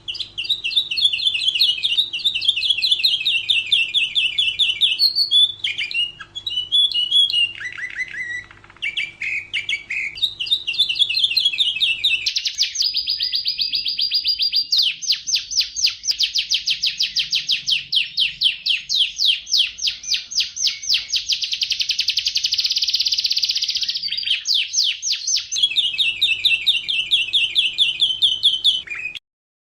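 Domestic canary singing: long, fast, high-pitched trills and rolling phrases with brief changes between them. The song cuts off abruptly near the end.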